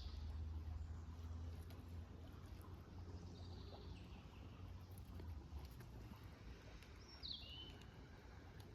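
Quiet outdoor ambience: a steady low rumble with two short bird calls, one a little under halfway through and a sharper falling call near the end.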